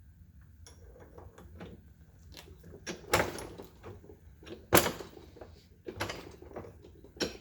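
Irregular knocks and clunks of hand tools working a bent steel bolt while straightening it, the loudest about three and five seconds in.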